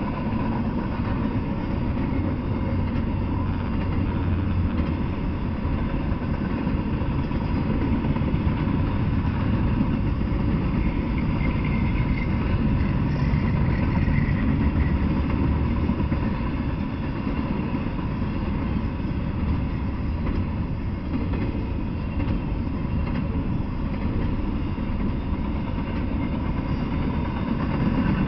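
Double-stack intermodal freight train rolling past, a steady rumble of steel wheels and container well cars on the rails.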